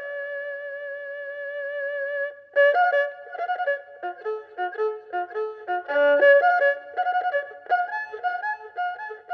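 Erhu playing a folk melody: one long held note for about two seconds, then a quick run of short notes moving up and down.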